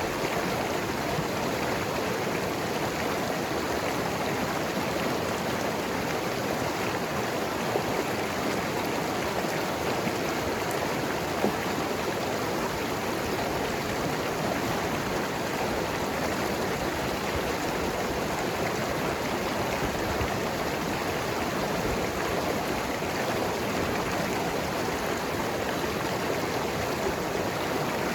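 Mountain river rushing and gurgling over rocks, a steady, unbroken wash of water.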